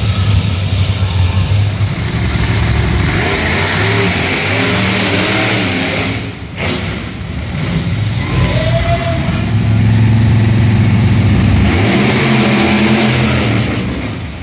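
Monster truck engine revving hard, its pitch rising and falling as the throttle is worked, with a short drop in level about six seconds in.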